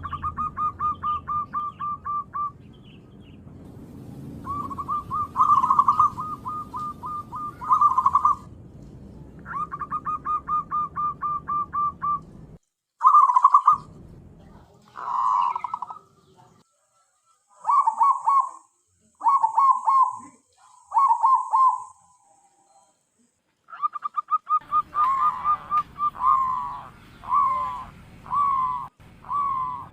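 Zebra dove (perkutut) cooing: runs of rapid, evenly repeated staccato notes at one pitch, phrase after phrase with short pauses between them.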